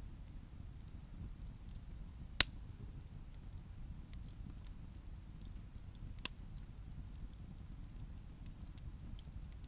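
Wood bonfire burning: faint scattered crackling ticks over a low steady rumble, with two sharp pops, a loud one about a quarter of the way in and a softer one past halfway.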